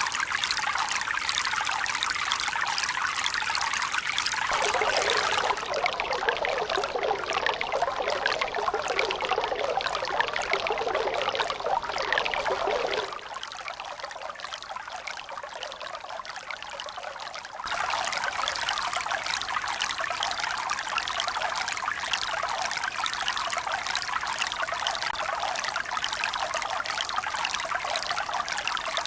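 Steady running, trickling water. Its tone shifts abruptly a few seconds in, and it drops to a quieter, duller stretch from about 13 to 18 seconds before coming back up, like spliced water recordings.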